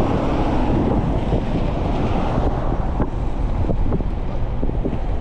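Wind buffeting the microphone of a helmet- or bike-mounted camera while riding an e-bike: a loud, steady, rumbling noise, with a few small knocks in the second half.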